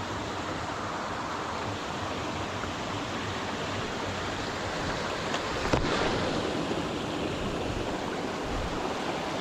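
Shallow creek water running steadily over rocks, with a single sharp knock a little past halfway through.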